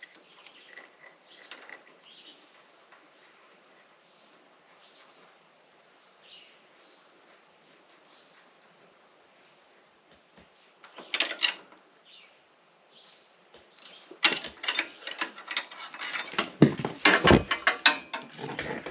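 Hand wrenches clicking and knocking against the valve rocker adjusters of a lawn tractor engine while the valve clearance is set: a short cluster of clicks about eleven seconds in, then a dense run of metal clicks near the end. A cricket chirps steadily, about two to three chirps a second, for most of the first two thirds.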